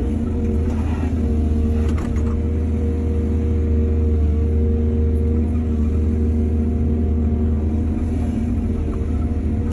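Excavator's diesel engine running steadily with a low hum, with a couple of faint knocks about one and two seconds in.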